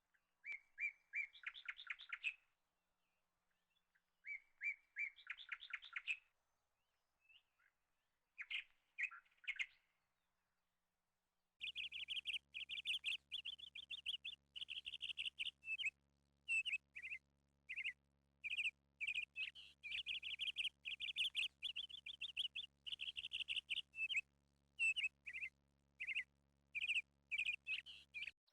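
Songbirds singing: a few short song phrases separated by silent gaps, then from about twelve seconds in continuous rapid chirping.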